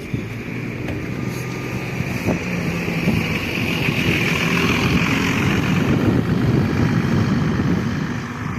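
City bus running and pulling away, its engine and road noise swelling over several seconds and easing off near the end.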